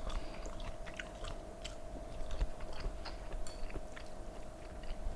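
A man chewing a mouthful of soft braised pork belly and buras rice cake close to the microphone, with many small wet mouth clicks and smacks at an uneven pace. A faint steady hum runs underneath.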